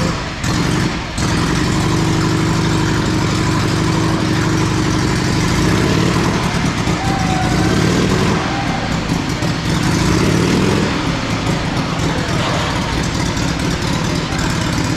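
1927 Indian Scout V-twin engine running hard as it is ridden around the Wall of Death, its pitch rising and falling with the throttle. There are two short drops in level about a second in.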